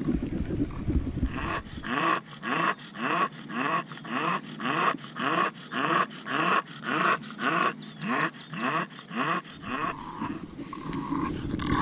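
Bulldog panting hard: a quick, even run of breaths at about two and a half a second, starting about a second in and stopping near the end.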